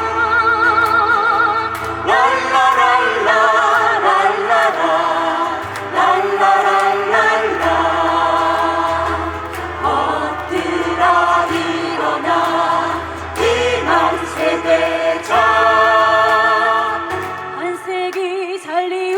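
Mixed group of voices singing a Korean protest song (minjung gayo) in chorus, with vibrato on long held notes, over keyboard and guitar accompaniment.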